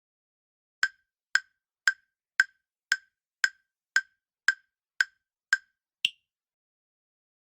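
Countdown-timer sound effect: ten evenly spaced wood-block-like ticks, about two a second, then a single higher-pitched click about six seconds in.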